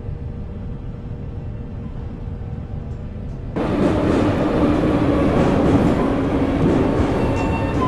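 Metro train running with a steady low rumble, which turns suddenly louder and fuller about three and a half seconds in.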